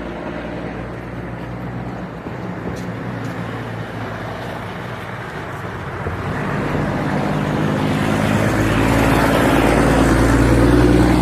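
A motor engine running steadily, growing louder over the second half.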